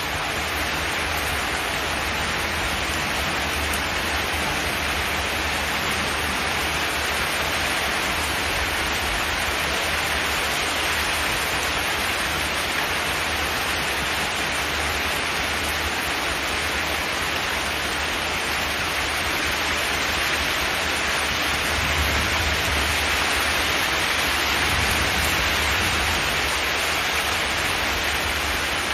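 Steady rain on a zinc metal roof: an even, unbroken hiss with a low rumble beneath it.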